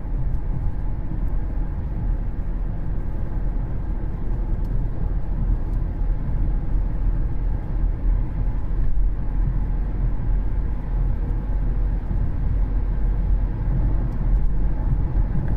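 Steady cabin noise of a 2013 Cadillac CTS driving down the road: a continuous low rumble of tyres and drivetrain with no distinct knocks or changes.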